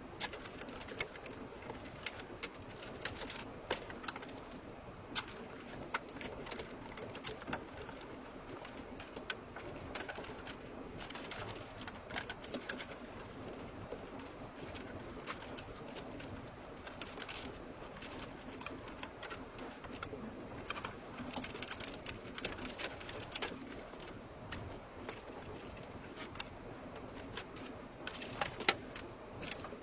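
Irregular light clicks and taps, several a second and uneven in strength, over a steady low hum; one sharper click comes near the end.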